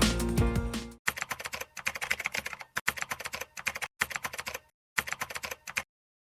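Computer keyboard typing: rapid key clicks in five short runs with brief pauses between them. Electronic background music dies away in the first second.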